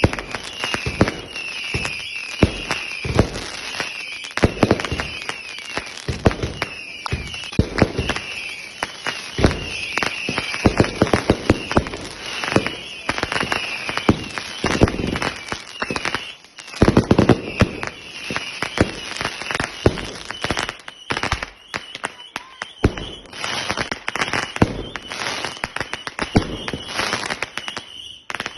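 Backyard consumer fireworks going off in a dense barrage: rapid bangs and crackling, with many short whistling tones over them.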